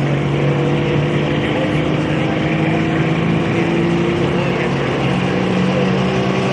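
Diesel pulling truck's engine running steadily, its pitch stepping up slightly about five seconds in.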